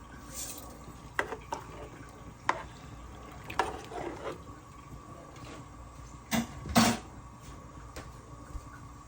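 Scattered clicks and knocks of kitchen utensils and containers being handled, the loudest two close together about six and a half seconds in, over a faint steady hum.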